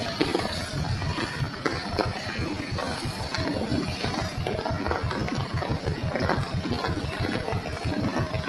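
A small engine idling, a steady, rapid low throb, with scattered light ticks over it.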